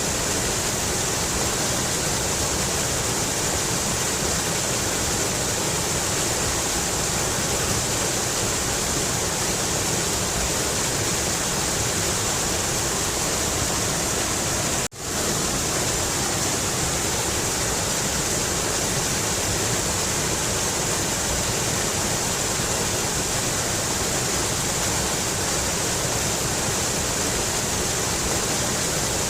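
Mountain river rushing steadily over rocks, an even roar of water, with the sound cutting out for an instant about halfway through.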